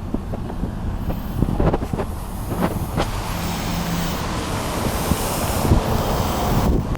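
The pickup's 350 V8 engine running with a steady low rumble, with a few short knocks over it.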